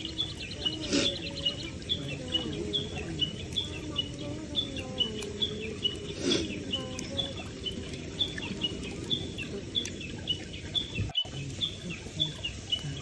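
Crickets chirping outdoors in short, evenly repeated chirps, a few a second, with two sharp pops about one and six seconds in. The sound cuts out for an instant near the end.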